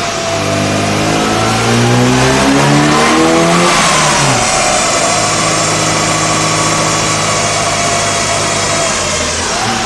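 Classic Mini's A-series four-cylinder engine under load on a rolling road: the revs climb for about three and a half seconds, drop sharply about four seconds in, then hold steady, with a whine rising and falling along with the engine.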